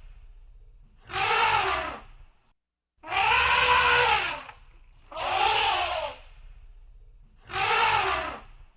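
Elephant trumpeting: four loud calls about two seconds apart, each rising and then falling in pitch.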